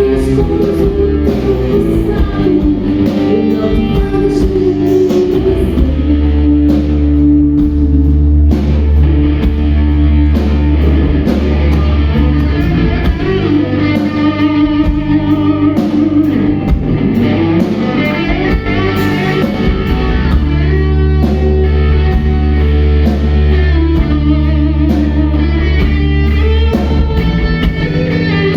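Rock band playing, with electric guitar to the fore over sustained bass notes and drums.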